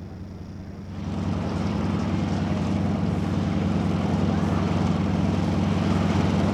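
T-6 Texan's Pratt & Whitney R-1340 radial engine running at low taxiing power, growing louder about a second in as the aircraft approaches, then holding a steady throb.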